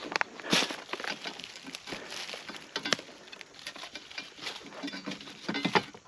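Irregular crackling and rustling, a scatter of small clicks and snaps like dry brush and leaves, with no engine running.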